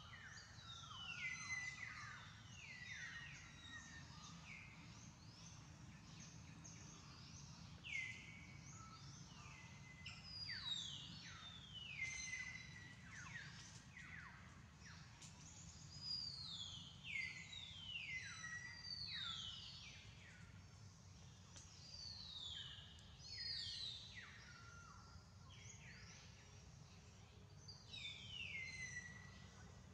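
Birds calling faintly: runs of high notes that each slide downward, repeated every couple of seconds, over a steady low background hum.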